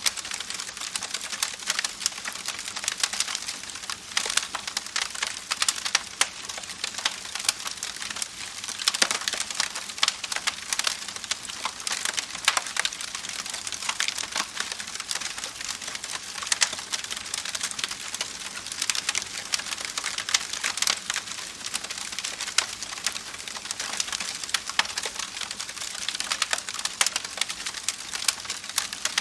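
Campfire crackling, with dense irregular snaps and pops over a steady rushing hiss from a babbling creek.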